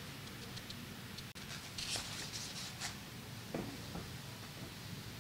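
Faint rustling and a few soft handling noises, in short bursts over quiet room tone, as someone looks something up, with no talking.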